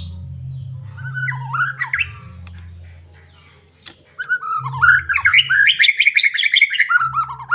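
White-rumped shama (murai batu) in full song: a short phrase of rapid whistled notes, then a longer, louder, fast warbling phrase from about four seconds in, over a low background hum.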